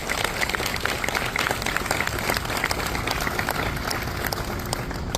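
Crowd applauding, many hands clapping in a dense, steady patter.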